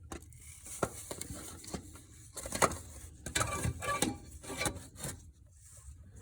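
Irregular light knocks, clicks and rubbing of hands and objects being handled, with one sharper click about two and a half seconds in and a busier run of clatter past the middle.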